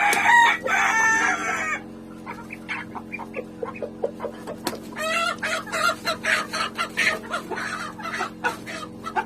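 Chickens clucking, with a rooster crowing for about the first two seconds and more clucking calls coming thick again after about five seconds. A steady low hum runs underneath.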